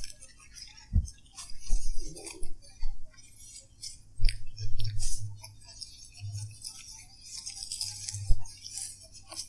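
Eating and food-handling noises at a take-out meal: crackly rustling and clicking, with a few dull knocks about a second in, around four seconds in and near the end.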